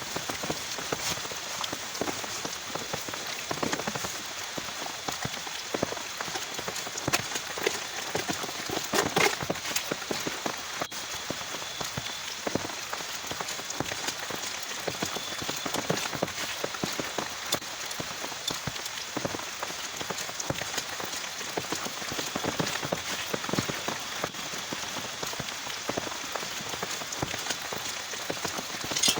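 Heavy rain falling steadily, with a dense patter of close drops striking a surface in quick irregular taps.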